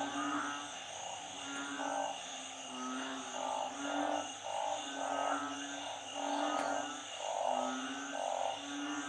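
Chorus of frogs calling after heavy rain and flooding, the narrow-mouthed frogs and small frogs named อึ่ง and เขียด. Overlapping short croaks come about once or twice a second at several pitches, over a steady high whine.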